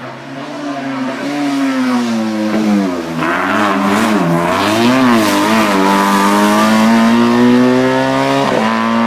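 Race car engine getting louder as it approaches. Its revs rise and fall several times in the middle, then hold high and steady, with a quick drop and recovery near the end like a gear change.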